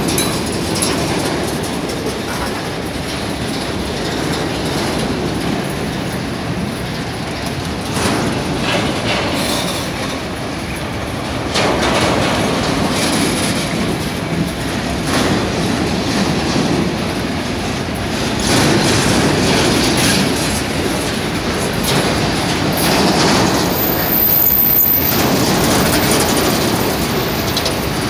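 A freight train's grain wagons rolling steadily past close by, their steel wheels rumbling and clicking over the rails with occasional sharper clacks.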